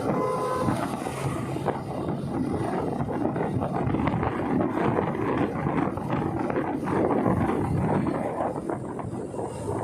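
Motorcycle on the move: engine and road noise with wind rushing and buffeting over the microphone. A short steady beep sounds at the very start.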